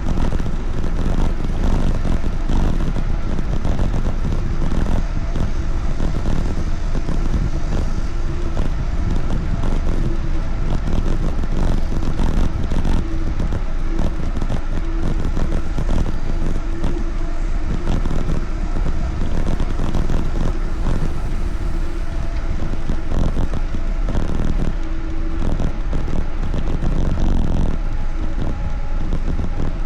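Steady wind and road rumble on the microphone of a moving bike.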